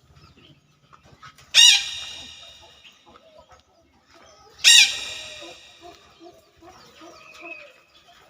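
Chickens calling: two loud, sharp calls about three seconds apart, each trailing off over about a second, with softer short clucks in between and after.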